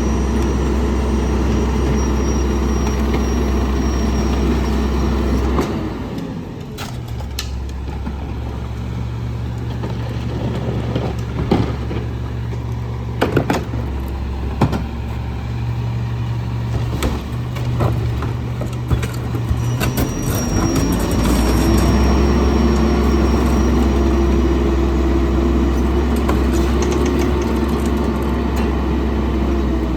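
Garbage truck's diesel engine running at high revs to drive the hydraulic packer, with a faint high whine over it. It drops back to a lower hum about six seconds in while a few sharp knocks and bangs sound, then revs up again about twenty seconds in.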